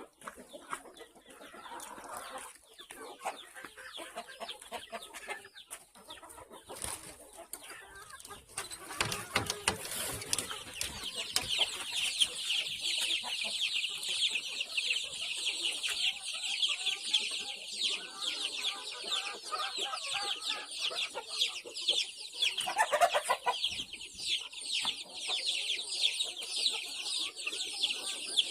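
A flock of desi chickens in a poultry house clucking, with a dense chorus of rapid high-pitched cheeping that swells and grows louder about ten seconds in and carries on steadily.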